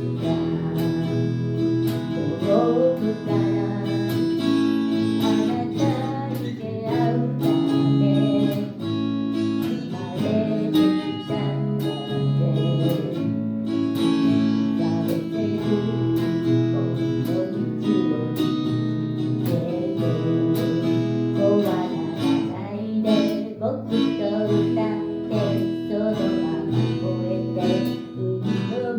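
Acoustic guitar strummed steadily, with a voice singing over it: a live song performance.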